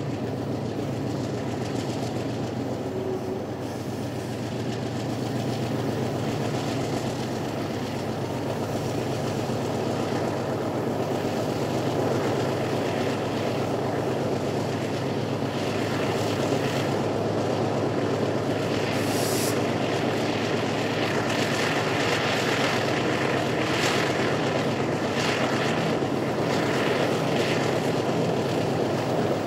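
Train running along the track: a steady diesel-locomotive engine drone with the rumble of wheels on rail, growing slightly louder partway through, with faint clicks near the end.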